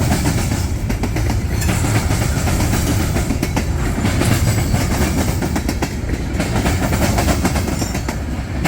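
Freight train rolling past at close range: a steady low rumble of the cars with the steel wheels clicking over the rails.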